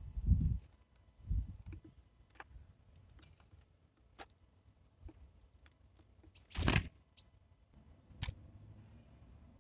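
Birds at a feeder: scattered sharp pecking taps and clicks with a few dull thumps, and one louder rustling burst about two-thirds of the way through.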